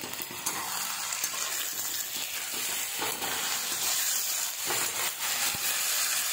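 Sliced onions and ginger-garlic paste sizzling steadily in hot mustard oil in a kadhai, stirred with a spatula that scrapes across the pan.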